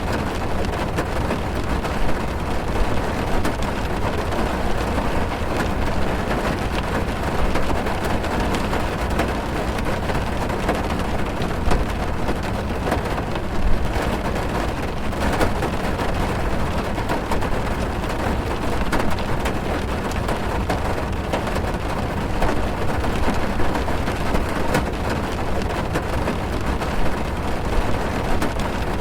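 Steady heavy rain drumming on a car's roof and windows, heard from inside the car: a deep, even rumble with a constant patter of individual drops.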